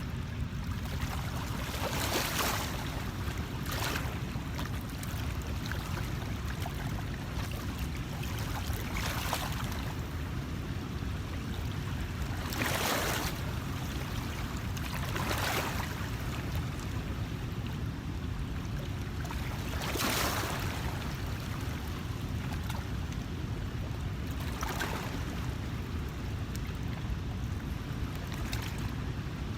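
Outdoor ambience at a river's edge: a steady low rumble of water and wind, broken every few seconds by a short, noisy swish.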